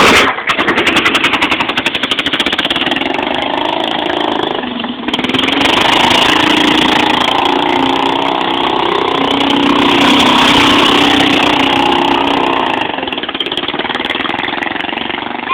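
Go-kart engine running hard under throttle as the kart is driven round in a donut. It eases off briefly about five seconds in, picks up again, then dies down near the end.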